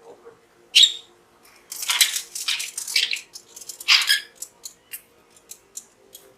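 Pet budgerigar making short sharp chirps and harsh, scratchy chatter, followed by a run of small quick clicks in the last couple of seconds.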